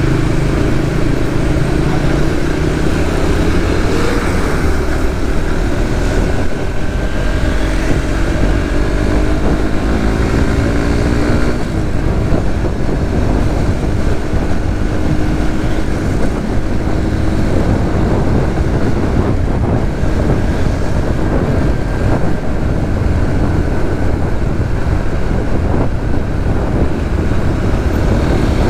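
Suzuki GSX-S150's single-cylinder engine running under way, with steady wind and road noise. About eight seconds in, its pitch rises for a few seconds as it accelerates, then drops.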